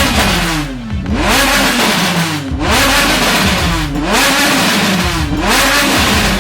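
A supercar engine being revved over and over, its pitch climbing and dropping back about every second and a half.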